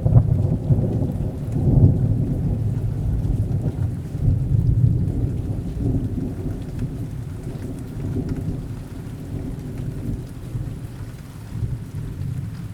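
Thunder rumbling over steady rain: a sudden loud onset, a second swell about two seconds in, then a long rolling rumble that slowly fades.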